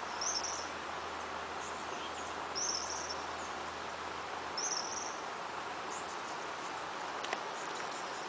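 Outdoor ambience: a steady hiss with three short, high-pitched chirps about two seconds apart, and a single sharp click near the end.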